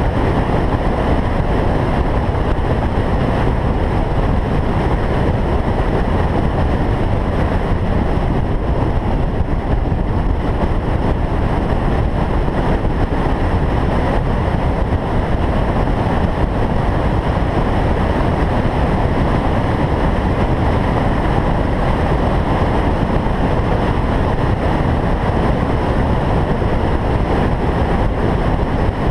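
Single-turbo Toyota Supra cruising at a steady speed: a constant, loud rush of engine, road and wind noise with no revving or gear changes.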